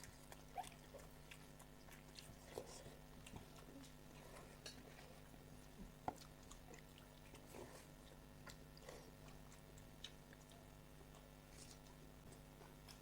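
Faint eating sounds of people eating panta bhat: scattered soft clicks and smacks of chewing, over a steady low electrical hum.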